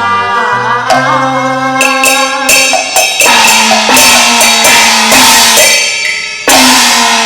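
Cantonese opera band playing an instrumental passage: melody instruments over a stepping bass line, with drums and repeated cymbal crashes in the second half.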